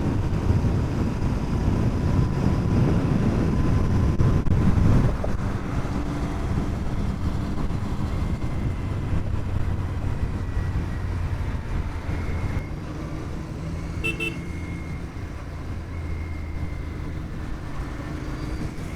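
Royal Enfield Continental GT 650 running on the road with wind noise, louder for the first five seconds and then steadier. A short horn toot sounds about fourteen seconds in.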